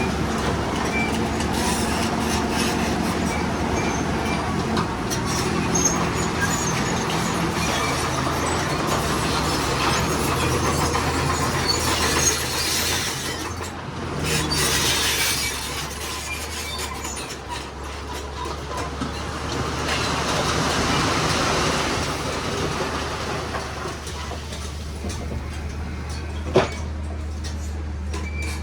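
Bulldozer working, its diesel engine running steadily under the clatter of its steel tracks; a sharp knock near the end.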